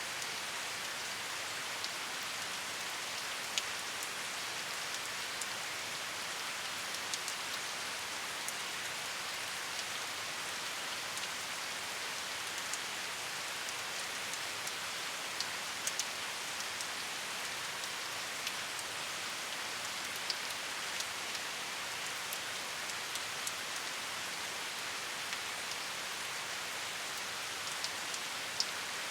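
Steady rain falling, an even hiss with scattered sharp drips and drop ticks standing out now and then.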